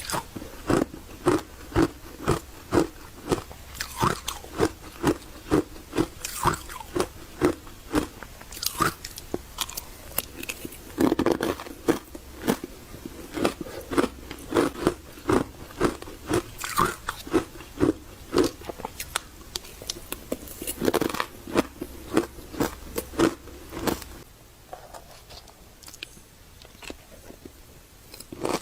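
Close-up chewing of refrozen powdery freezer ice: soft crunches at about two to three a second, with a thicker run of crunching after a fresh bite about eleven seconds in and again near twenty-one seconds, going quieter and sparser in the last few seconds.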